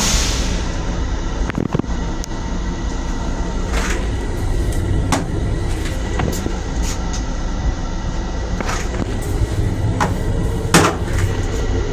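Steady low rumble inside a Long Island Rail Road M7 railcar, with scattered sharp clicks and knocks; the loudest knock comes near the end.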